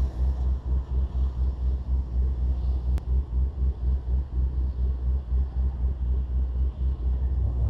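Car engine idling with a loud, uneven low rumble that pulses several times a second, and a single sharp click about three seconds in.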